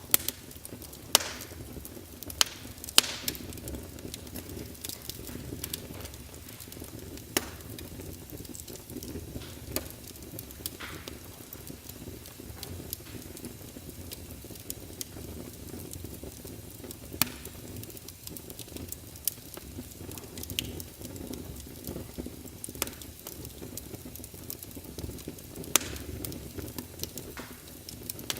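Wood logs burning in a fireplace: irregular sharp crackles and pops over a steady low rush of the flames. The loudest pops come in the first few seconds, with single sharp ones again past the middle and near the end.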